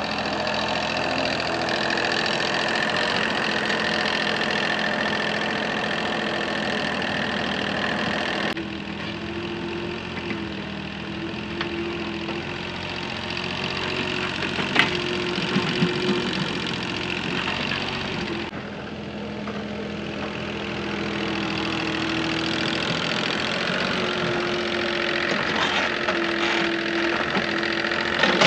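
An engine running steadily, its sound changing abruptly about eight and eighteen seconds in.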